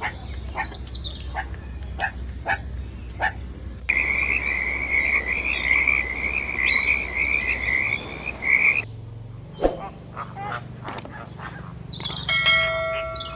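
A run of short animal-call clips: sharp clicks and short falling calls at first, then a steady high trilling call for about five seconds in the middle, then further short calls near the end.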